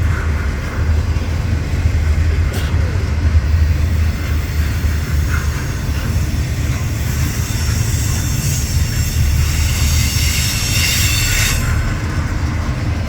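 Freight train cars rolling past on steel rails, a steady low rumble of wheels. From about seven to eleven and a half seconds a high metallic wheel squeal rings over it.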